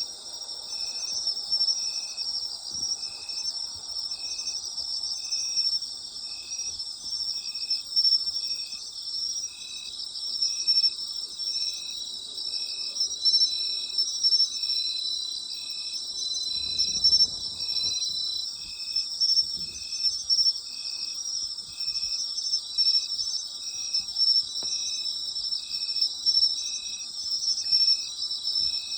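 Night chorus of autumn insects: a dense, unbroken high trilling from many callers, with one insect chirping at a steady rhythm of about one chirp a second. A brief low rumble a little past halfway.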